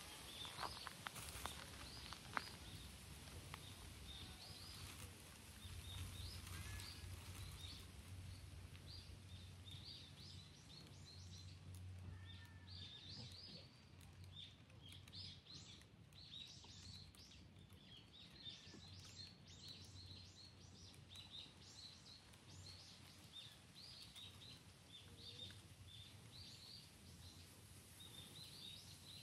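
Faint chirping of small birds: many short, high calls in quick succession throughout, over a faint low rumble.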